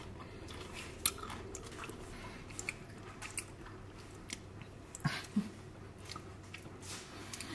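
Crisp bites and chewing of raw green mango slices: scattered small crunches and mouth noises, with a brief vocal sound about five seconds in.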